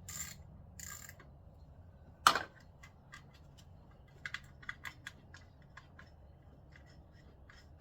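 Hand-tool work on a car engine: one sharp metallic clack about two seconds in, then a run of light, uneven metal clicks of a ratchet wrench being worked on a bolt.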